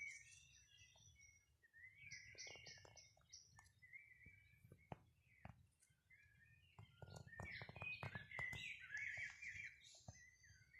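Small birds chirping and twittering faintly, with a busier run of calls about two thirds of the way through, and a few light clicks in between.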